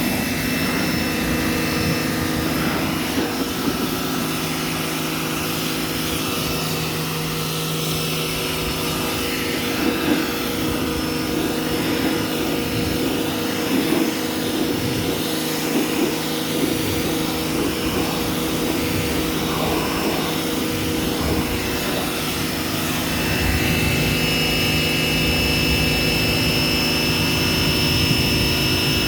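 A machine running steadily: a low drone with a constant high whine over it, the whine growing louder over the last few seconds.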